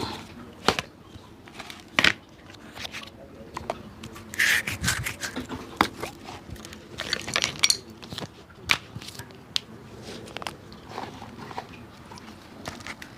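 Irregular scrapes, clicks and crackles of a street cobbler working on a worn old shoe by hand, with a longer rough scraping burst about four and a half seconds in and a cluster of sharp clicks a few seconds later.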